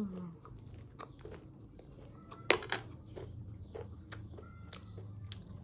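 Close-up chewing and crunching of chatpate, a spicy puffed-rice snack, with small scattered crunches and a sharper double crunch about two and a half seconds in.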